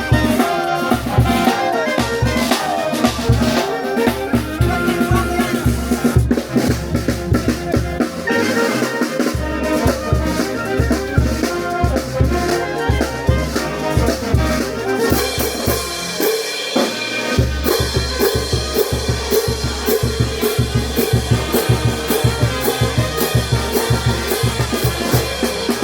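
Brass band playing festival music with horns over a steady beat of bass drum and snare. The low drums drop out briefly about sixteen seconds in, then return with crashing cymbals on the beat.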